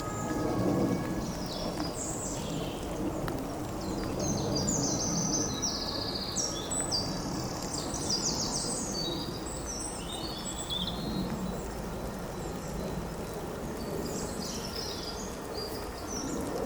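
A songbird singing in phrases of fast repeated high notes, through the first two-thirds and again near the end, over a steady low rumble of outdoor background noise.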